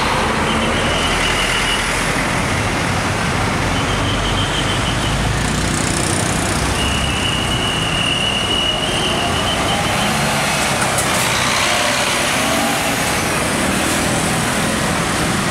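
Scania K410iB double-decker coaches' six-cylinder diesel engines running as the coaches pull out and drive past one after another, mixed with motorcycle and street traffic. A shrill high tone sounds three times, the longest for about two seconds.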